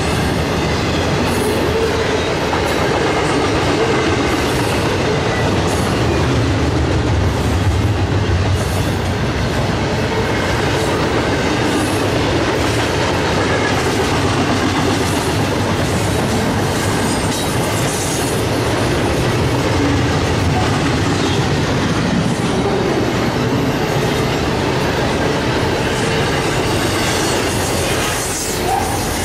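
Double-stack intermodal container train rolling steadily past, its wheels running on the rails in a continuous, even noise.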